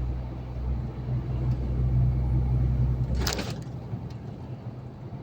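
Truck engine and road noise heard from inside the cab: a steady low drone that drops away about three seconds in, just as a short burst of noise passes.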